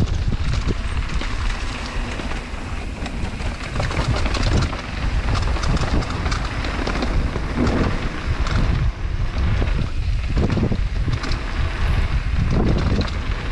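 Wind buffeting the microphone of a camera riding along on a mountain bike descending a trail, with tyres on dirt and frequent small rattles and knocks from the bike over bumps.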